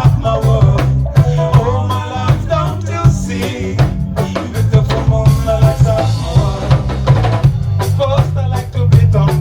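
Reggae band playing a lovers rock tune: a heavy bass line under a drum kit keeping a steady beat, with keyboard or guitar parts above.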